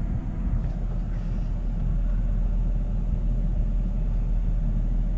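Truck engine running, heard from inside the cab as a steady low rumble.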